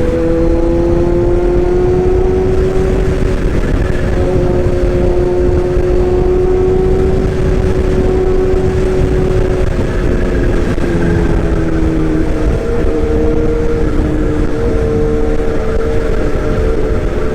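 Motor vehicle engine running at a steady cruising speed, its drone drifting slowly in pitch and shifting around two-thirds of the way through, over a heavy low rumble of road and wind noise.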